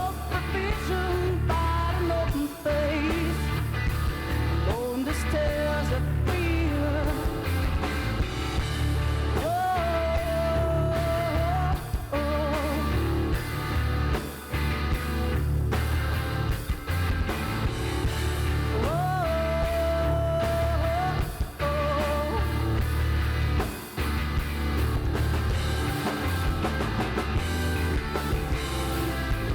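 Live rock band playing, with bass, drums and guitar. A lead melody swoops up into a long held note twice, about a third and two thirds of the way through.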